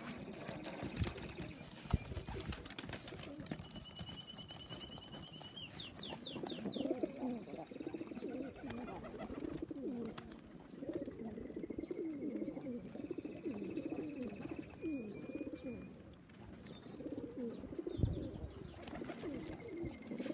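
Racing pigeons cooing over and over, with thin high-pitched peeping calls above them.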